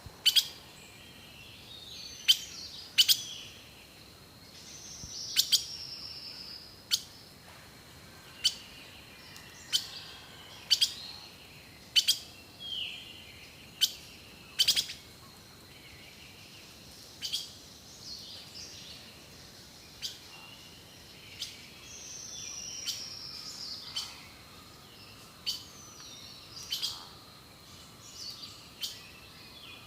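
Birds singing: a run of short, sharp high chirps about once a second, with a falling whistled phrase twice.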